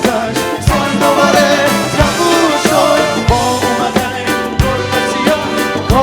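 Live band music with a steady drum beat, an upbeat ska-like groove, and singing heard over it.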